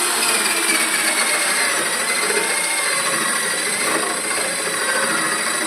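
Electric power tool running steadily while cutting or working wood, with a faint wavering motor whine over a hiss.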